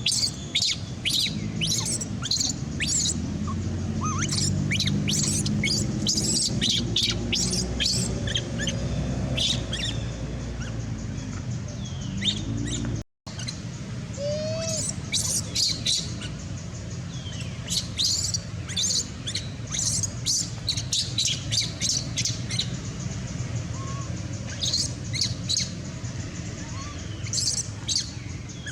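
Baby monkey giving rapid, high-pitched squeaks and chirps in repeated clusters, over a steady low hum; the sound drops out briefly about halfway through.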